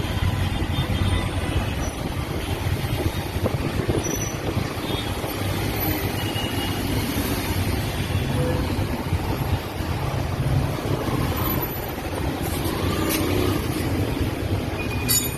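Steady rumble of motor vehicle engines running, with no break or change.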